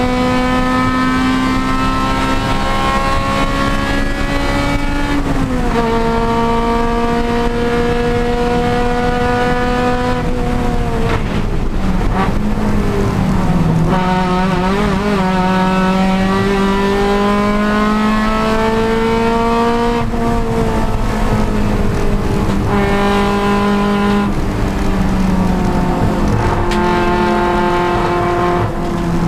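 Honda Civic Si race car engine under load on track, its pitch climbing slowly through the revs. It drops sharply at upshifts about five seconds in and again around eleven seconds, climbs again, then falls away over the last few seconds as the car slows.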